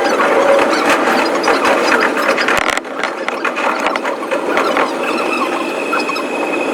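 Electric commuter train running, its sound sped up about fivefold: a dense, rapid clatter of wheel and track noise. A high steady squeal joins about five seconds in.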